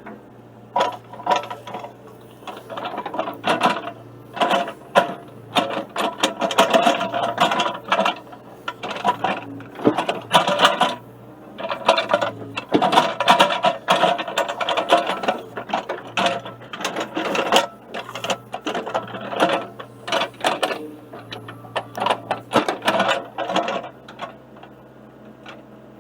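Excavator running steadily under load, with rapid clanking and rattling of chain and metal as it pulls a rusted iron post out of the ground.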